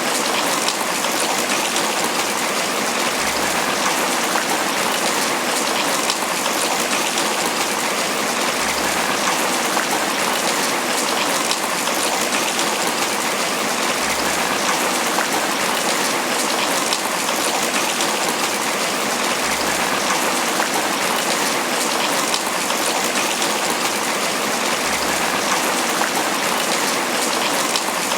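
Steady, heavy tropical rain pattering on banana leaves: a dense, even wash of countless drop hits.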